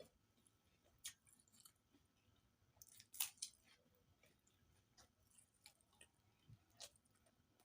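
Faint sounds of a person chewing and eating fish curry with rice: scattered wet mouth clicks and smacks, the loudest about three seconds in.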